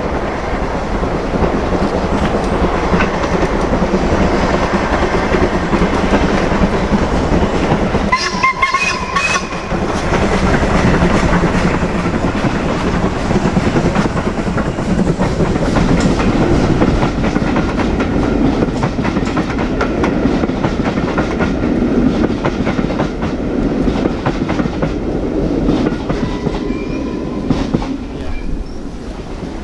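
Steam locomotive hauling a train past, its wheels clattering steadily over the rail joints. A whistle sounds briefly about eight seconds in, and again more faintly near the end.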